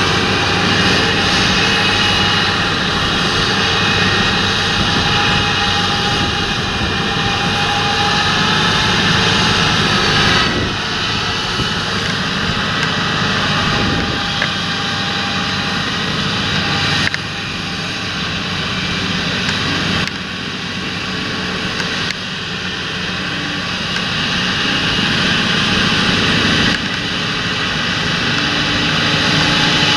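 John Deere tractor's diesel engine running steadily under field work, with a steady high whine over the low engine note. The level and tone change abruptly a few times, about 10, 17, 20 and 27 seconds in.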